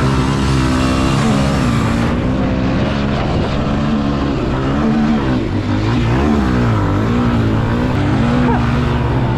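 Pit bike engine revving hard at race pace, its pitch climbing and dropping again and again as the throttle is rolled on and off through the track's jumps and turns.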